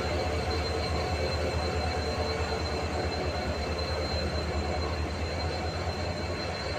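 EMD WDG-4D diesel-electric locomotive idling at a standstill: a steady low hum with a faint, constant high whine above it.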